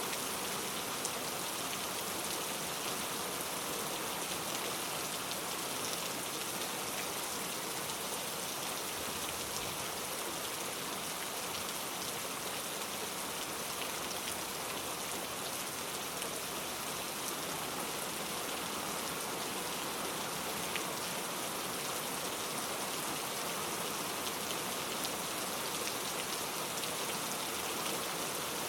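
Steady rain falling and pattering on a surface, an even hiss of many drops with faint individual drop ticks.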